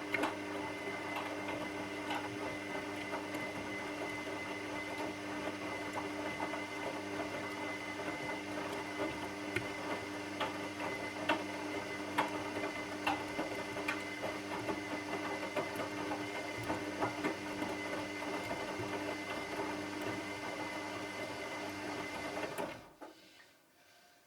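Washing machine running with a steady motor hum and scattered small clicks and rattles. It stops about 23 seconds in, leaving near silence.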